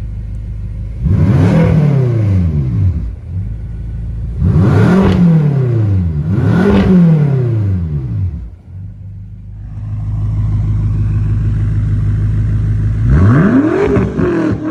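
BMW F10 M5's twin-turbo V8 with its mufflers cut off, idling and revved four times, each rev climbing and falling back to idle.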